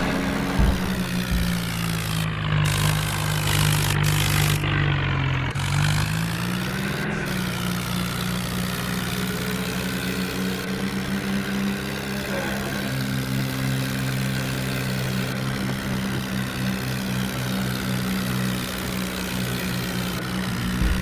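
New Holland tractor's diesel engine running, its pitch dipping about five seconds in, then rising and holding steady.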